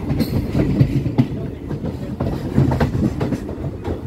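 Indian Railways passenger train running, heard from aboard: a steady rumble of the coaches with irregular clacks and knocks from the wheels over the rails.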